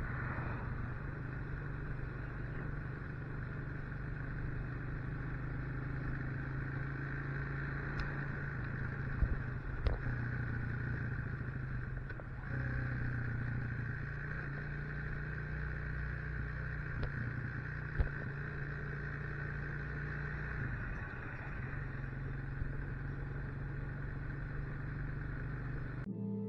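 Motorcycle engine running steadily under way, with a few sharp knocks or clatters along the way.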